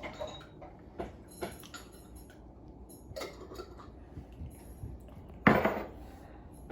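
Dishes and cutlery clinking and knocking together as a dishwasher is unloaded: a string of separate clinks, with the loudest clatter about five and a half seconds in.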